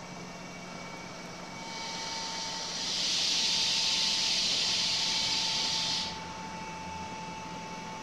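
Electric passenger train at a station with a steady hum and a steady whine, over which a loud hiss swells up about two seconds in and cuts off suddenly a few seconds later.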